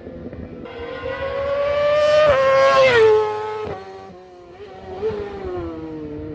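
A high-displacement racing motorcycle engine accelerating hard, its pitch climbing and getting louder to a peak about three seconds in. The pitch then drops sharply and the sound fades, and a smaller rev follows about five seconds in.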